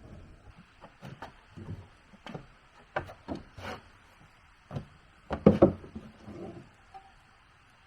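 Pieces of wood knocking and clunking together as they are handled, in irregular knocks with a louder cluster of clunks about five and a half seconds in.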